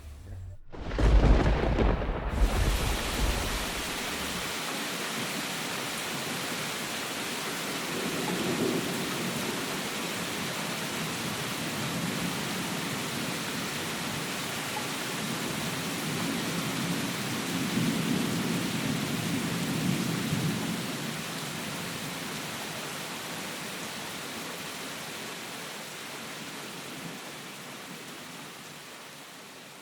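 Thunderstorm: a sharp, loud thunderclap about a second in, its deep rumble dying away over a few seconds, then steady heavy rain with distant thunder rolling twice more, fading out near the end.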